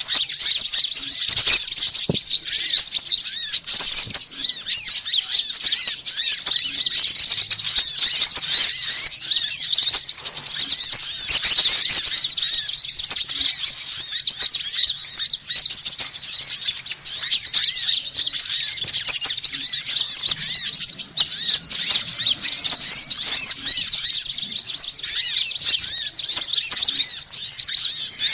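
Dense, noisy chorus of many small birds chirping and twittering rapidly all at once, calls overlapping without pause: an Indonesian bird-lure (pikat) recording of agitated small songbirds, meant to draw small birds in.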